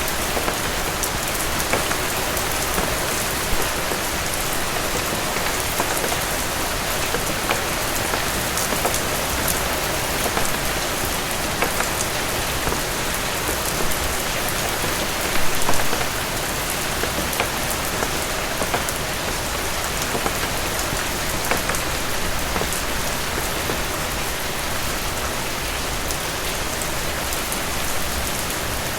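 Steady heavy rain falling on a cabin roof, a dense hiss with individual drops ticking throughout. About halfway through there is a brief louder spatter.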